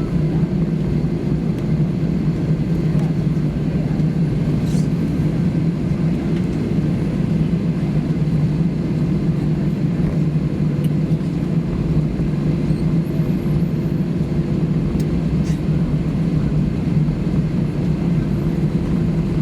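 Steady cabin hum inside an Airbus A320: a constant low drone of the engines and air conditioning.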